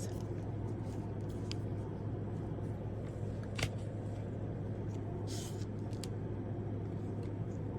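Steady low hum of room noise, with a few faint clicks and a brief rustle from handling the small nail-stamping plate in its packaging.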